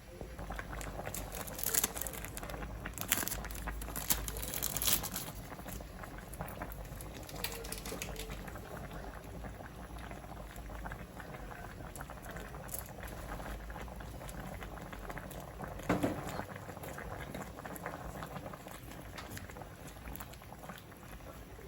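Chicken adobado bubbling and simmering in a pan, with a few sharp clicks.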